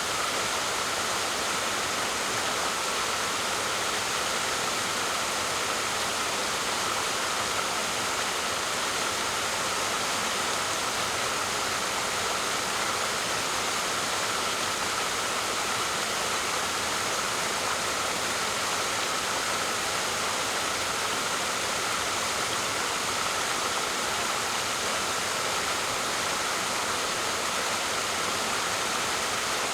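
Steady rush of a waterfall, an even hiss of falling water with no change throughout.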